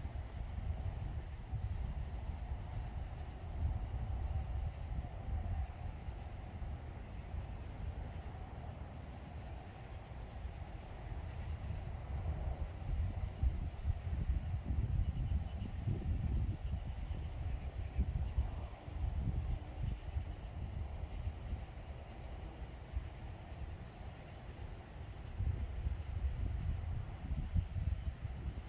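Insects trilling in one steady, unbroken high-pitched drone, over a low, uneven rumble that swells and fades.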